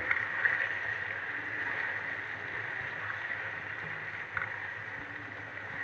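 Potatoes, tomatoes and onions frying in oil in a wok: a steady sizzle, with a few faint clicks of the silicone spatula against the pan as they are stirred.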